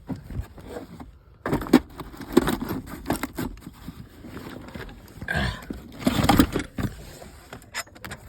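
Irregular knocks, clicks and scrapes of hands working at a pickup truck's door, with the loudest knocks near the start, about a second and a half in, and around six seconds in.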